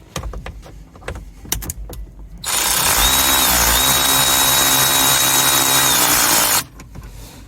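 A few clicks and knocks, then a power drill runs steadily for about four seconds with a whine, its pitch dipping briefly early in the run, as it backs out a 10 mm glove-box bolt.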